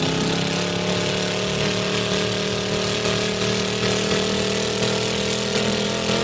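Truck engine running at steady high revs, its pitch holding level, then cutting off suddenly at the end.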